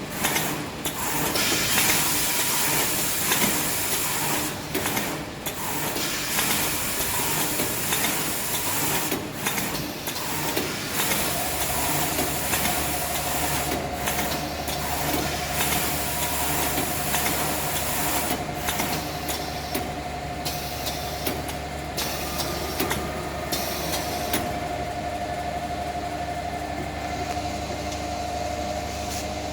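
Maxi roll tissue paper band saw cutting machine running: a hissing noise with brief breaks, then about eleven seconds in a motor comes on with a steady low hum and a high whine.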